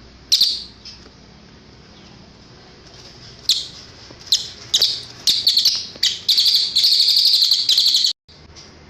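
Cililin songbird calling: one sharp call about half a second in, then a run of quick high calls that build into a fast, continuous trill for about two seconds, cut off suddenly near the end.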